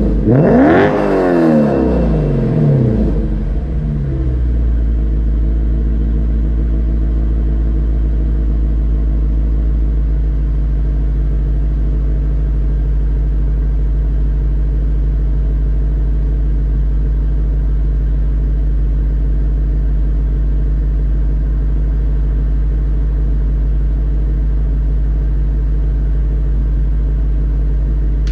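Lexus GS F's 5.0-litre V8 exhaust, through an EXART aftermarket muffler, blipped once in a stationary free-rev. The revs rise to a peak about a second in and fall back over the next two to three seconds, then the engine settles into a steady idle.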